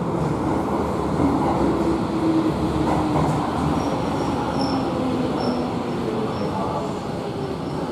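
Electric train running, Tobu 70090-series THライナー set, with a low motor hum that slowly falls in pitch. Short high wheel squeals come in from about the middle on.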